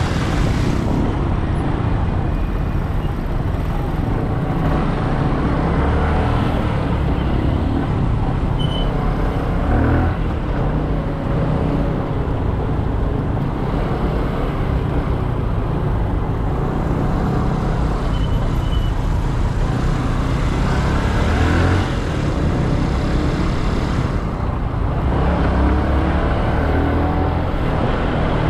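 Motorcycle engine running at speed through traffic, its pitch rising and falling as it revs and shifts gears, with a couple of brief louder surges.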